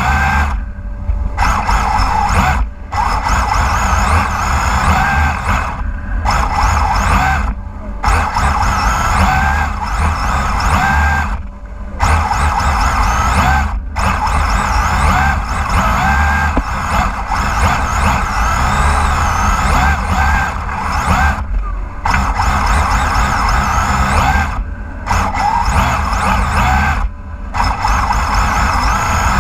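RC drift car's Onisiki Shura 10.5T brushless motor whining, rising and falling in pitch with the throttle, with the tyres spinning as it drifts. The whine cuts out briefly every few seconds as the throttle is let off, over a steady low rumble.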